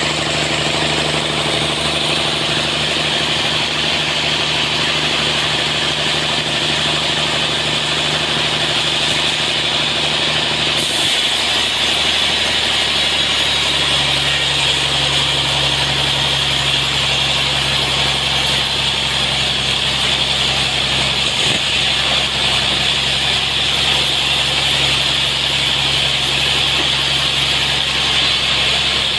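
Sawmill running steadily, its engine and blade cutting through a large trembesi (rain tree) log with a constant hiss. The engine note drops slightly about halfway through.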